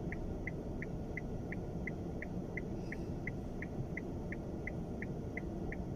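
Car turn-signal indicator ticking evenly, about three ticks a second, inside the cabin over the low rumble of the car driving in strong wind.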